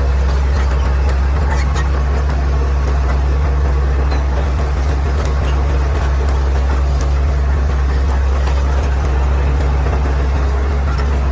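Caterpillar D6R XL bulldozer's diesel engine running at a steady, even speed with a strong low hum, with scattered light clicks over it.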